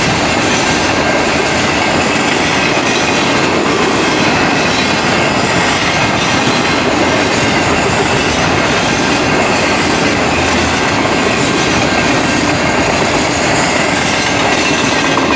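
Freight train cars rolling past at close range: a loud, steady rumble and clatter of steel wheels on the rails, with a thin, steady squeal running through it.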